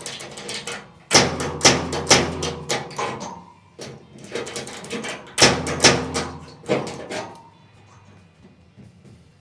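Two bursts of sheet-metal bodywork on the truck's wheel arch, each about two seconds long, made of rapid sharp knocks over a low hum. A faint ringing tone trails off after each burst.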